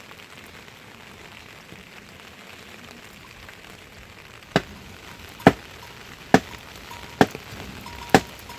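A steady soft hiss, then from about halfway through a run of sharp, evenly spaced chopping strikes, about one a second, five in all.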